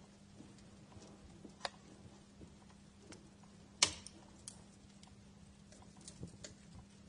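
Wood fire crackling in a fireplace: scattered small clicks and pops over a quiet hiss, with one sharper pop a little under four seconds in.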